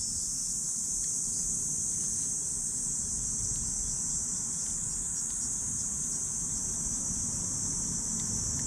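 Steady, unbroken chorus of crickets in a high, even band, over a low rumble from the campfire, with a few faint crackles.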